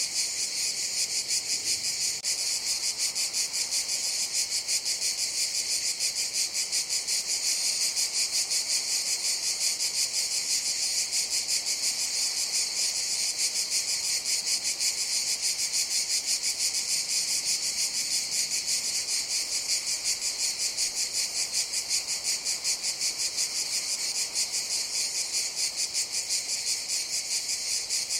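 Cicadas calling: a steady, high, shrill buzz that pulses rapidly and evenly and never breaks.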